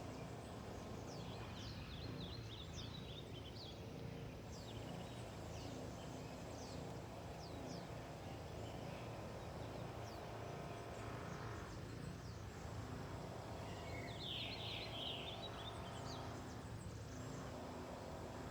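Wild birds calling: scattered short, high chirps throughout, with a rapid trill of notes near the start and again about fourteen seconds in, over a steady low background noise.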